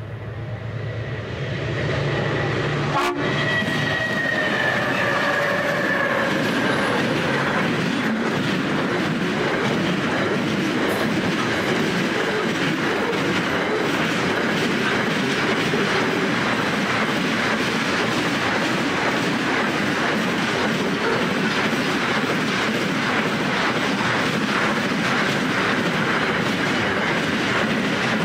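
Freight train led by G-class and BL-class diesel locomotives approaching, the engines' low hum growing louder, then the horn sounding about three seconds in for several seconds, its chord sliding slightly lower as the locomotives pass. After that, the steady rush and clatter of a long string of loaded container wagons rolling past on the track.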